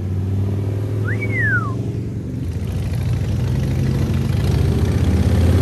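A car engine running low and steady, getting louder toward the end as it comes closer. About a second in, a single short whistle rises and then falls.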